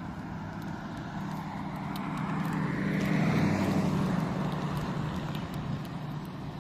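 A motor vehicle drives past, its engine hum and tire noise growing to a peak about halfway through, then fading away.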